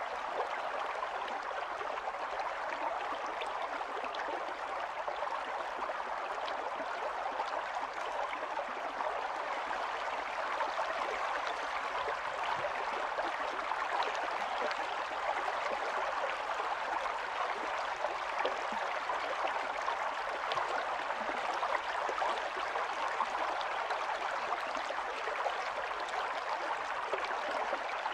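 Stream water running and burbling over stones, a steady rushing with fine splashy flicker.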